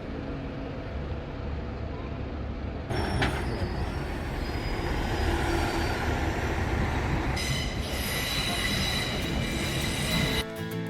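A rail vehicle rumbling along with its wheels squealing in high, steady tones, louder from about three seconds in. Music starts near the end.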